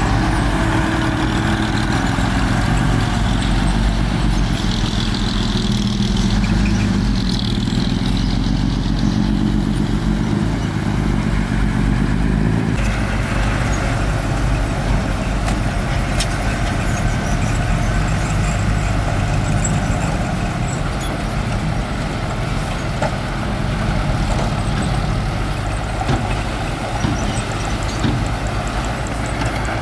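Bulldozer's heavy diesel engine running under load. Its pitch climbs over several seconds as it revs up, then drops back abruptly about twelve seconds in, and it runs steadily for the rest.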